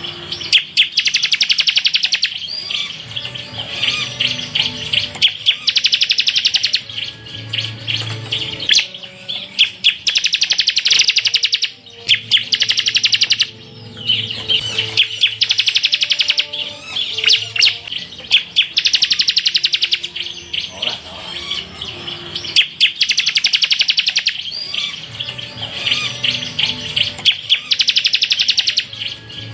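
Bar-winged prinia (ciblek) singing rapid-fire trill phrases, the 'tembakan' style. Each phrase lasts a second or two and they repeat over and over with short gaps.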